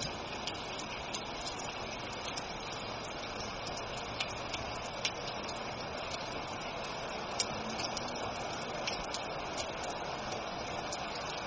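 Steady rain hiss with scattered drops ticking irregularly.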